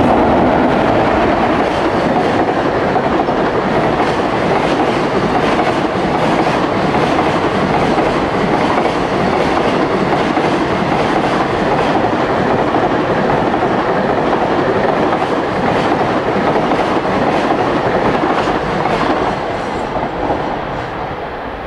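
Express container freight train, hauled by an electric locomotive, passing at speed: a loud, steady rush of steel wheels on rail with repeated clicks from the rail joints. It eases off about nineteen seconds in as the last wagons go by.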